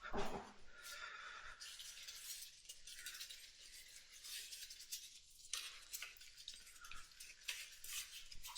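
Faint clinking, scraping and rattling of hand tools against metal parts while working on a motorcycle's carburetors, with a louder knock right at the start.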